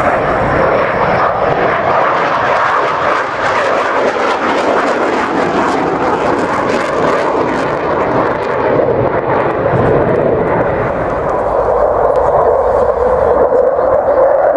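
Engine noise of a fixed-wing display aircraft flying over, a continuous loud rush whose pitch sinks over the last few seconds.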